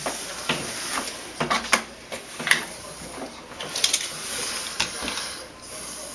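Scattered light clicks and knocks of tools and parts being handled during door installation work, over a faint steady hiss.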